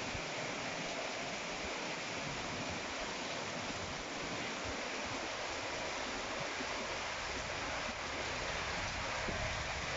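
Storm rain falling steadily: an even hiss, with a little more low rumble near the end.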